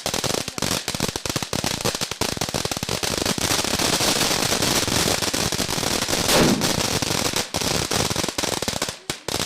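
Firecrackers going off in rapid succession, a dense crackling run of bangs, with one louder bang about six seconds in.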